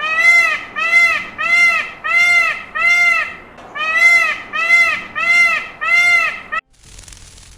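An animal calling over and over: nine short calls that rise and fall in pitch, about two-thirds of a second apart, cutting off suddenly near the end.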